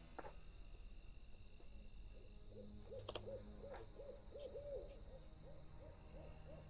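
Owl hooting quietly, a fast run of short hoots, about three a second, with two brief clicks about three seconds in.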